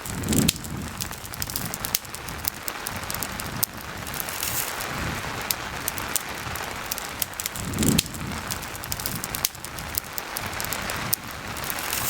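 Steady rain mixed with a crackling campfire, sharp pops and crackles scattered throughout. Two short low thumps stand out, one just after the start and one about eight seconds in.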